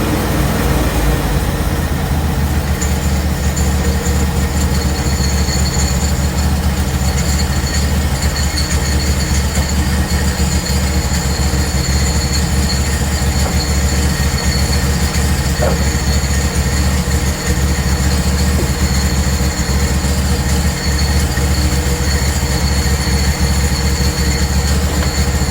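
Portable band sawmill running under load, its engine holding a steady drone, with a steady high whine that sets in about three seconds in as the band blade cuts through a frozen log.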